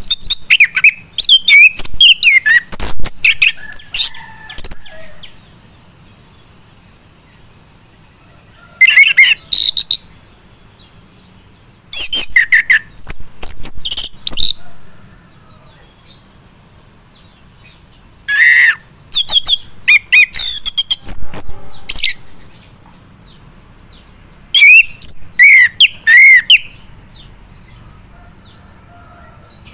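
Male chestnut-capped thrush (anis kembang) singing in five bursts of rapid, sliding whistled notes, with pauses of a few seconds between phrases.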